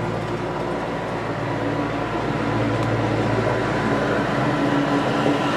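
John Deere 5055E's three-cylinder turbocharged diesel running steadily, getting a little louder about halfway through.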